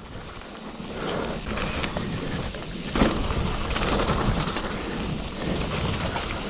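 Mountain bike descending a rough downhill trail over braking bumps: tyres on the muddy ground and the bike rattling, with wind on the microphone and a sharp knock about three seconds in.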